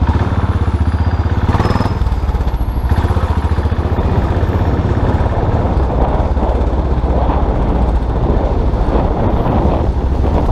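Custom motorcycle engine running steadily on the move, a low even pulse, with a brief burst of noise about a second and a half in.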